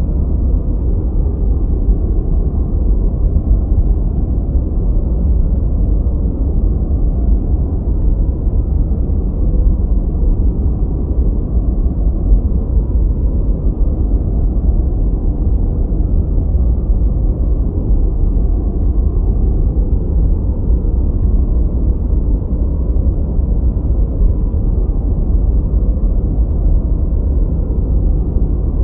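Steady noise-masking sound of the deep, muffled brown-noise kind: an even rumble-like hiss with nothing bright in it, unchanging throughout.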